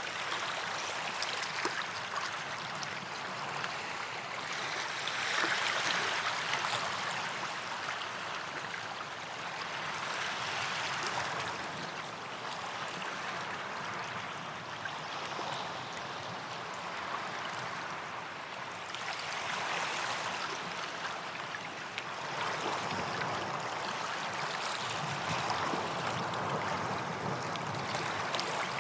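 Small waves lapping and washing onto a sandy beach, a steady hiss of surf that swells and eases every few seconds.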